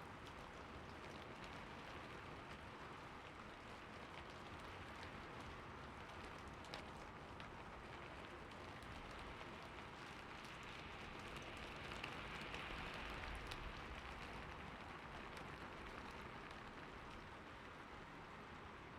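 Steady rain falling, with scattered drop ticks, swelling slightly a little past the middle.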